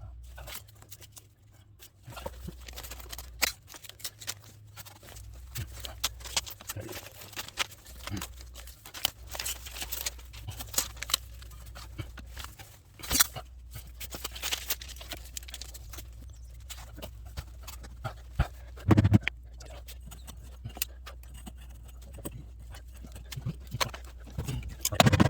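Scattered clicks, scrapes and rustles of hands working heat wrap and aluminium tape onto a motorcycle exhaust pipe, over a low hum that comes and goes.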